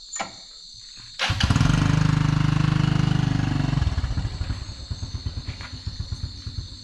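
A motorbike engine starts suddenly about a second in and runs loud for a couple of seconds, then moves off, its engine note pulsing and fading away. Insects chirp steadily throughout.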